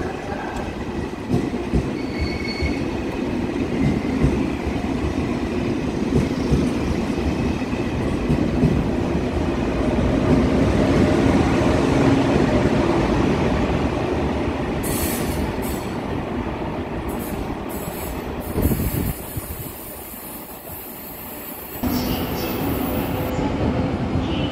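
KTX high-speed train rolling past along the platform: a heavy, steady rumble of wheels on rail, with a brief high wheel squeal about two seconds in. The rumble is loudest about halfway through as the rear power car goes by, then thins out, while a hiss rises over it in the second half.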